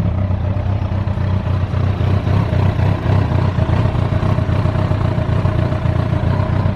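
2009 Kawasaki ZZR1400's inline-four engine idling steadily through an aftermarket Striker slip-on muffler.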